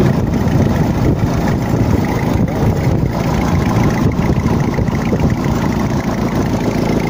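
Freshly rebuilt carbureted gasoline engine idling steadily just after its first start, with an exhaust leak that the mechanic points out.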